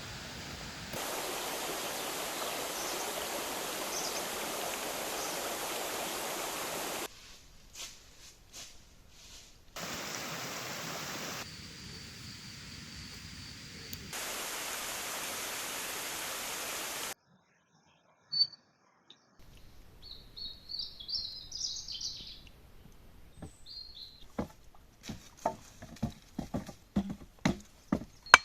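Outdoor ambience in cut-together blocks: a steady hiss that starts and stops abruptly, a moment of silence, then small birds chirping, followed by a growing series of light knocks.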